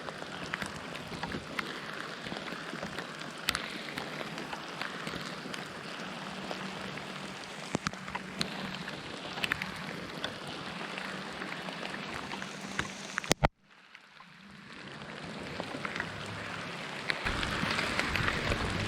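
Steady rain falling, with scattered sharp drop ticks. About thirteen seconds in the sound cuts off after a sharp click and fades back in, growing louder near the end.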